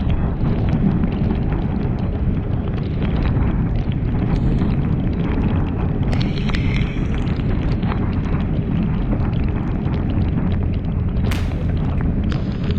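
Storm-force wind buffeting the microphone, a loud, continuous low rumble, with a sharp crack about eleven seconds in.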